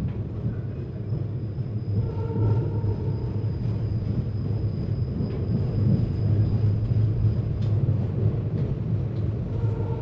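Passenger train rumbling, a steady low rumble, with a thin high-pitched whine that stops near the end.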